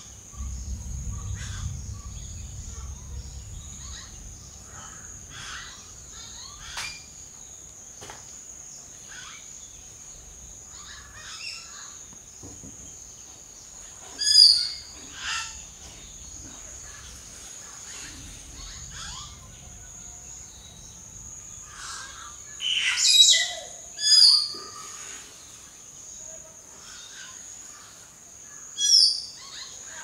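Forest birds calling: scattered faint short notes, with about five loud sharp falling calls in two pairs around the middle and one near the end, over a steady high-pitched drone.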